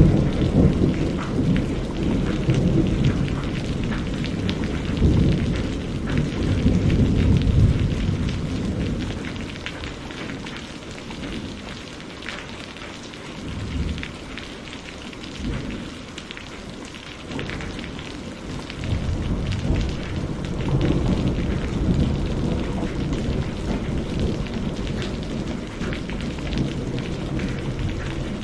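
Steady rain falling with rolling thunder, which rumbles strongly for the first several seconds, dies down through the middle, and builds again near the end.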